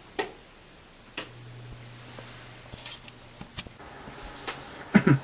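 A few sharp clicks, with a low steady hum lasting about two seconds that starts on the second click.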